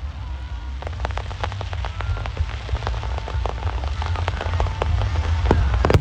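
Fireworks crackling overhead: a dense, rapid patter of small pops that starts about a second in and thickens, with a few louder bangs near the end, over a low rumble.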